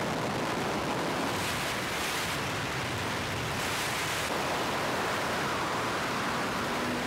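Steady road and wind noise of a car driving at highway speed, with two brief swells of hiss about one and a half and four seconds in.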